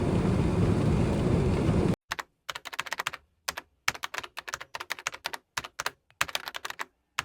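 A steady low rumbling noise cuts off abruptly about two seconds in, followed by typing on a computer keyboard: quick key clicks in bursts with short pauses, over dead silence.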